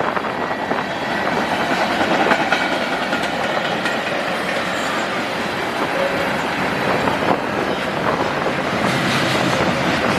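Freight cars of a manifest train rolling past at speed, a steady loud rumble with the wheels clattering over rail joints in a rapid run of clicks.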